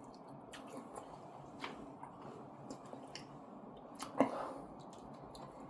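A person chewing steak close to the microphone: soft, wet mouth clicks and smacks, with a brief louder mouth sound about four seconds in.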